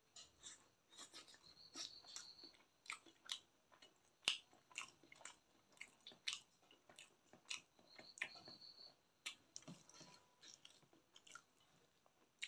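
Close-miked chewing of curried chicken and rice: soft, wet mouth clicks and smacks at an irregular pace.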